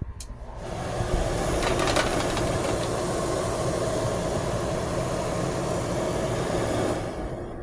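Bosch clothes dryer running: a steady mechanical whirring noise that comes up about half a second in and eases off near the end.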